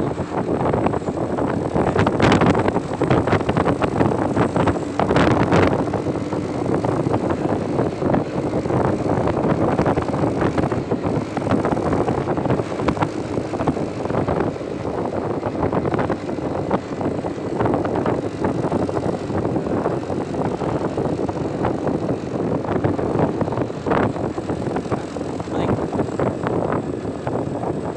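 Truck engine droning steadily while driving, mixed with road noise, with scattered short knocks and rattles, the strongest about two and five seconds in.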